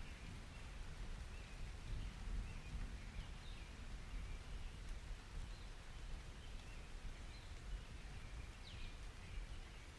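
Ambience recording of steady rain hiss under a low rumble of thunder, with birds chirping faintly now and then.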